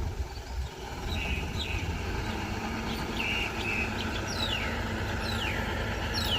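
Steady low rumble of a heavy machine's diesel engine running, with several short bird chirps that fall in pitch sounding over it.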